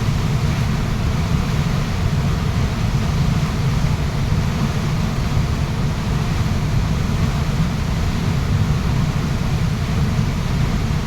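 Waterfall rushing with a steady, unbroken roar of falling water, heaviest in the low end.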